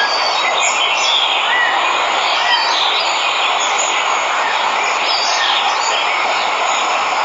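Steady rushing of a waterfall, with birds chirping briefly here and there over it.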